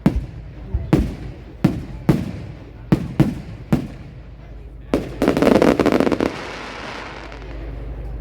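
Aerial fireworks bursting: a run of sharp bangs, roughly one every half second to a second, then a dense crackle of many rapid pops about five seconds in that fades away.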